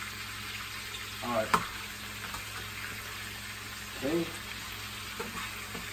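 Chicken cordon bleu frying in oil in a skillet, a steady sizzle, with a single sharp click about a second and a half in.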